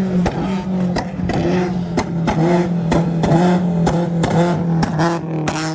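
Car engine revved and held steady against a two-step launch-control rev limiter, with sharp exhaust pops and bangs cracking out two or three times a second.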